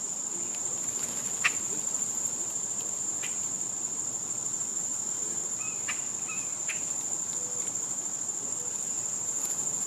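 A steady, high, unbroken drone of summer insects, with a few short sharp clicks and chirps over it, the loudest about one and a half seconds in.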